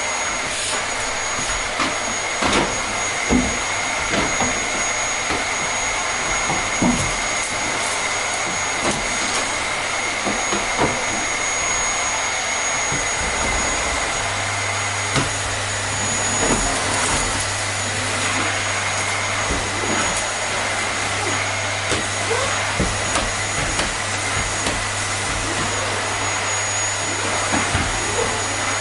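Vacuum cleaner running steadily, a constant rushing hiss with a faint high whine and scattered small clicks. A low hum joins about halfway through.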